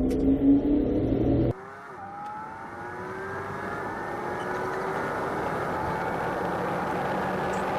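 Loud low road noise cuts off abruptly about one and a half seconds in, then a car engine accelerates hard, its pitch climbing steadily and the level building.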